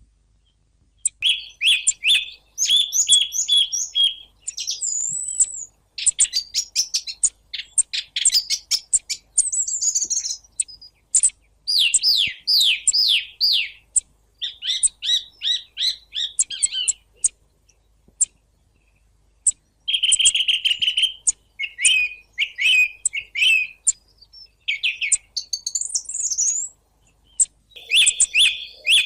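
Song thrush singing: short phrases of whistles and rapid notes, each note or figure repeated several times in a row, with brief pauses between phrases.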